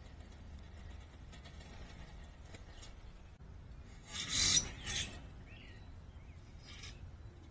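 A short rasping, rustling scrape in two bursts about four and five seconds in, with a faint bird chirp just after.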